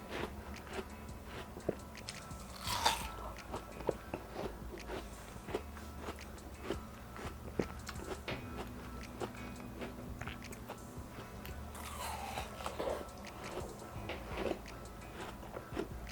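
Close-up biting and chewing of crisp, chilled watermelon: irregular wet crunches and smacking as mouthfuls are bitten off and chewed.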